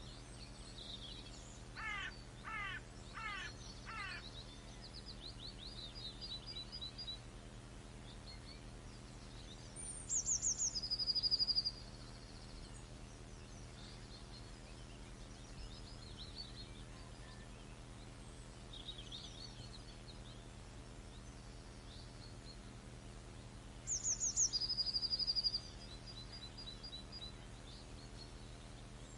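Songbirds calling and singing in the countryside in spring, with one louder song, a quick run of high notes ending in a trill, heard twice. A steady low background hum runs underneath.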